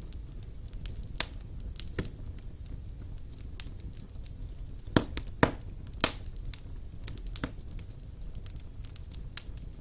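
Wood fire burning in a fireplace, crackling and popping at irregular intervals over a low steady rumble, with a cluster of louder pops about five to six seconds in.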